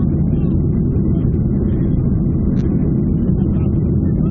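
Steady low rumble of a Ryanair Boeing 737's jet engines and airflow, heard as airliner cabin noise.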